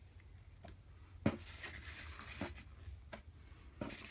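Paper and card items being handled: soft rustling with a few light taps and clicks as printed sheets and booklets are moved and set down.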